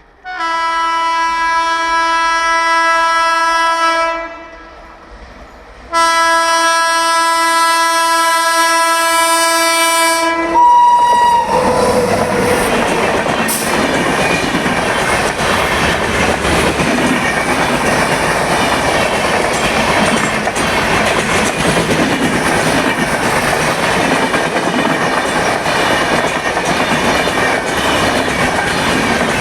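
An Indian Railways train's twin-tone horn blows two long blasts of about four seconds each, some two seconds apart, with a brief higher note at the end of the second. The train then runs past at speed, its wheels clicking over the rail joints.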